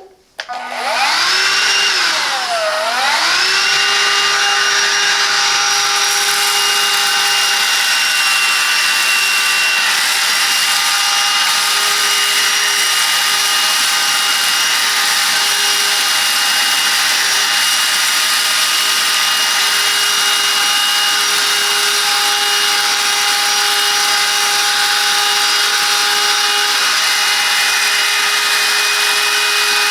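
Silvercrest 18-volt cordless handheld vacuum cleaner switched on and running, a steady motor whine over the rush of air. Its pitch sags briefly about two seconds in, then holds steady while it cleans up debris.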